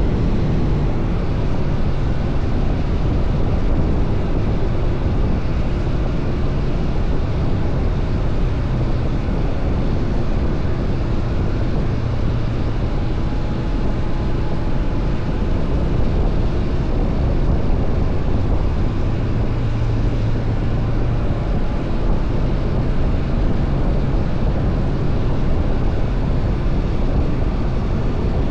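Honda CBR500R parallel-twin engine running steadily under way, mixed with heavy wind rush on the action camera's microphone.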